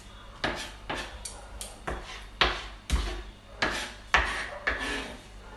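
Kitchen clatter: about ten irregular knocks and scrapes of dishes, utensils and other items being moved about on a counter.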